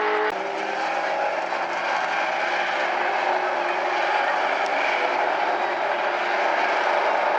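A field of short-track oval race cars running on the track, the engines' mixed sound steady with no sharp revving.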